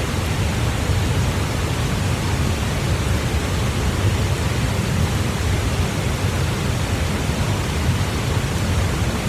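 Steady rushing noise with a low rumble, unbroken and even.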